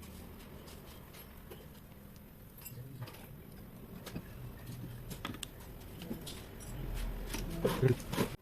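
Scattered light clicks, taps and scraping of metal engine parts and tools being handled during a scooter engine overhaul, with a cluster of louder knocks near the end.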